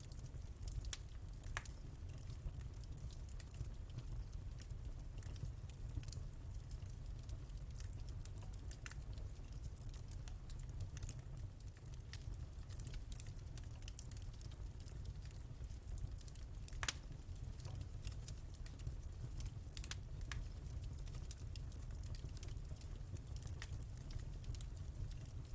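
Wood fire burning in a fireplace: a steady low rumble of the flames with irregular sharp crackles and pops, one louder pop about 17 seconds in.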